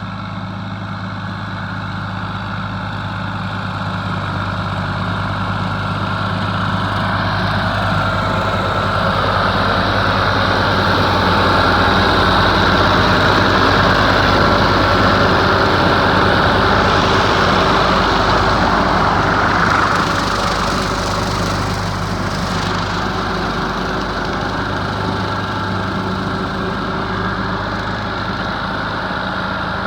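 Ford 4000 three-cylinder diesel tractor running steadily with its bush hog rotary cutter, a continuous low engine note under a dense whirring. It grows gradually louder over the first ten seconds or so, holds, then eases off a little about twenty seconds in.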